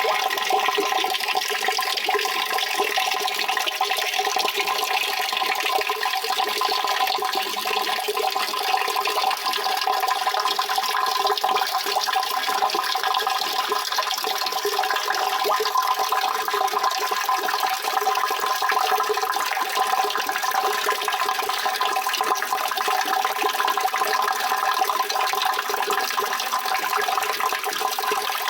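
Steady rushing water, an unbroken even hiss that neither rises nor falls.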